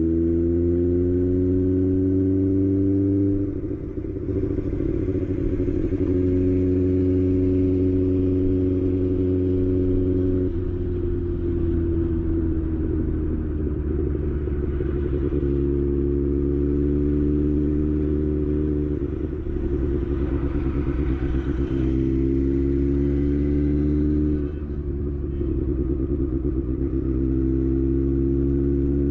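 Kawasaki ZX-6R's inline-four engine idling steadily, its pitch drifting slightly up and down. A few stretches of rougher, unsteady noise come in on top, about four seconds in, around the two-thirds mark and near the end.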